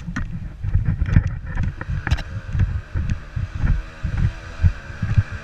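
Dirt bike engine running on a rough trail, largely masked by wind buffeting the microphone, with scattered sharp knocks.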